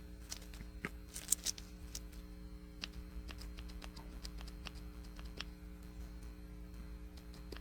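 Light clicks and taps of small plastic pigment containers and a mixing cup being handled while tinting resin, with a few sharper clicks just over a second in.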